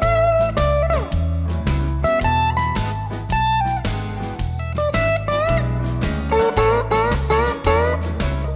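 Clean electric blues lead on a 1989 Fender Telecaster through a Vox AC10C1 tube amp, with string bends, a run of quick repeated bent notes near the end and a sliding note about a second in. It plays over a blues backing track with a repeating bass line.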